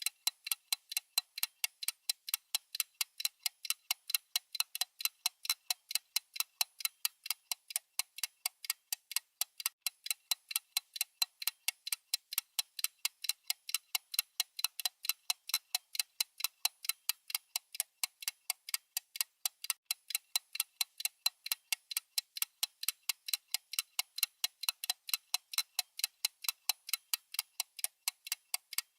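Clock-style ticking sound effect of a countdown timer: rapid, evenly spaced sharp ticks, steady throughout.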